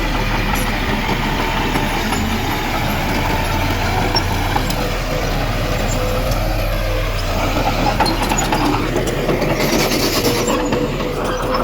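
Diesel engine of heavy earthmoving machinery running steadily, with a brief hiss near the end.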